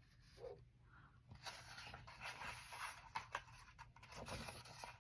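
Faint rustling and light scraping of paper with a few small clicks, typical of a picture book's page being handled and turned.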